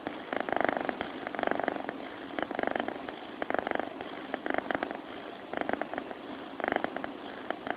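Sleeping cat purring: a rasping, finely pulsing buzz that swells on each breath in and out, about once a second.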